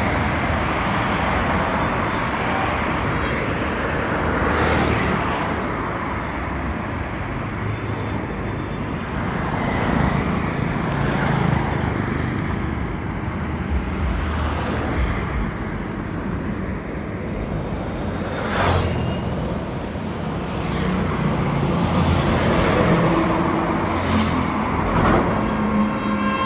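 Steady road traffic noise: engines and tyres of passing vehicles, with a short sharp burst of noise about two-thirds of the way through.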